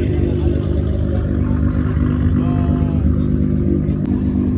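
Car engine idling with a steady, unchanging low drone.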